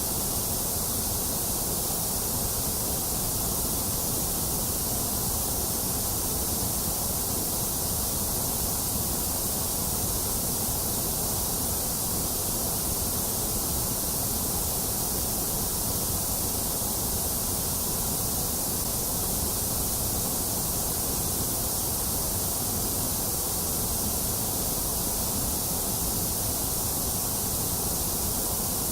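Steady, unchanging white noise of the kind played to soothe an infant to sleep: an even hiss and rush, strong in the highs and lows with the middle range dipped.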